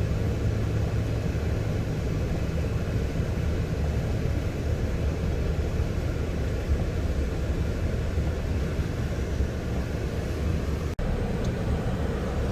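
Nissan Titan pickup driving through snow, on BFGoodrich KO2 all-terrain tyres that have been aired down: a steady low rumble of engine and tyres. The sound breaks off for an instant near the end.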